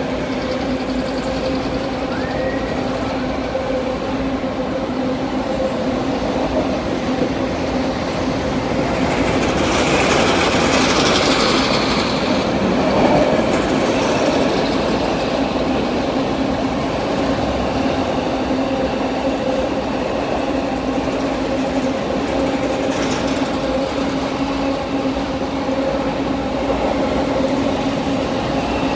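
Freight train wagons rolling past on the track, a continuous rumble with a steady hum, swelling louder for a few seconds about ten seconds in.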